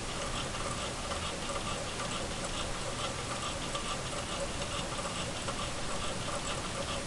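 Stirling engine running, its moving parts clicking in a steady, rapid ticking rhythm.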